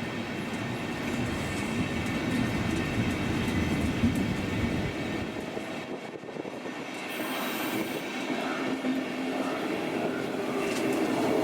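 Electric locomotive-hauled passenger train running on the rails, a steady rumble of wheels and track, with a brief high squeal about seven seconds in.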